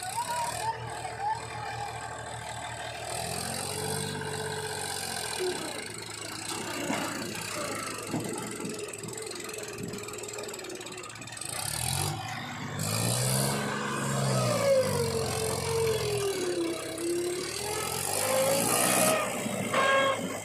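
Heavy diesel engine working under load, revving up and falling back twice, the second time harder, with a whine that slides up and down in pitch.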